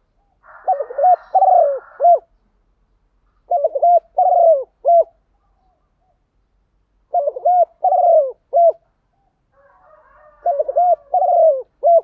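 Spotted dove cooing: four repeated phrases of several short coos each, about every three to four seconds.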